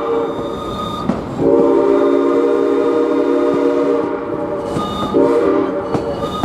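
Steam whistle of Ventura County Railway No. 2, a 1922 Baldwin 2-6-2 locomotive, blowing a long chord-like blast and then a short one, part of a long-long-short-long grade-crossing signal. Faint rail clicks sound under it.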